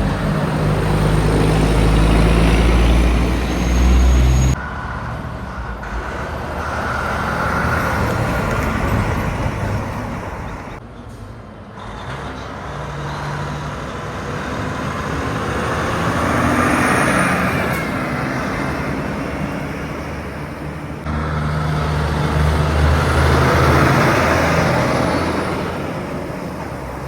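Trucks and other highway traffic driving past, diesel engines and tyre noise rising and falling as several vehicles go by, with loud pass-bys about a third and two-thirds of the way in and again near the end. The sound changes abruptly twice, at about 4.5 s and about 21 s.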